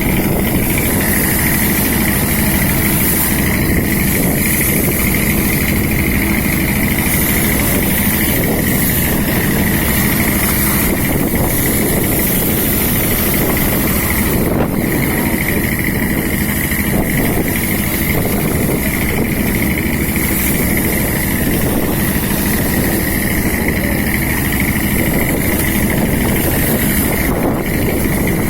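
Fishing boat's engine running steadily, a constant loud drone with no change in speed.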